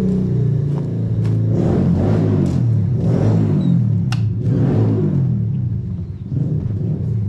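Yamaha TT-R90 dirt bike's small four-stroke single-cylinder engine running, revved up and down a few times with the throttle.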